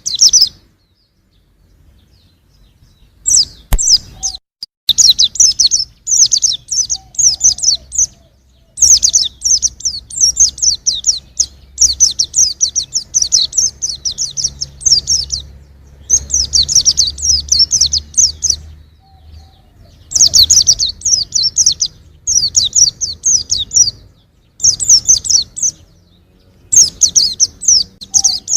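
Young white-eye (pleci) singing: rapid, high twittering chirps in phrases of one to three seconds with short pauses between them, beginning about three seconds in.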